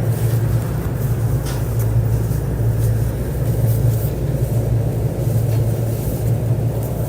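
Running noise of a JR East E531 series electric multiple unit under way: a steady low rumble of wheels on rail and traction equipment, with a few faint clicks.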